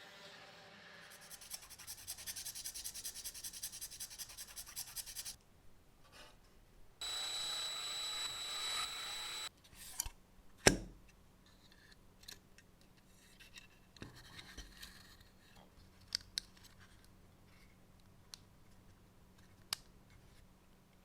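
Workshop handling sounds: a few seconds of rapid rasping strokes, then a steady high whir for a couple of seconds, followed by scattered clicks and one sharp knock.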